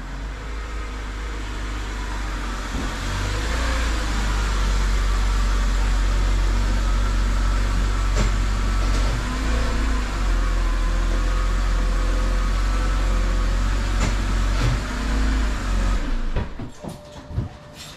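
BMW 328i's straight-six engine running as the car creeps in and stops, growing louder over the first few seconds. It is switched off near the end, followed by a few light clicks.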